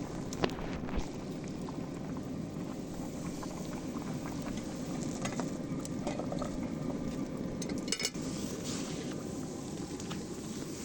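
Food boiling in a pot over heat, a steady bubbling, with a few sharp clicks and a short cluster of them about eight seconds in.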